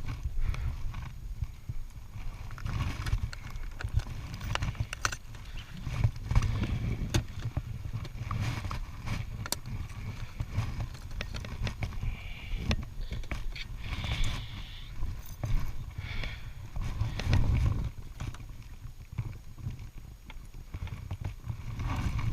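Motorcycle ride heard from on board: a steady low rumble of engine and wind, with scattered clicks and rattles.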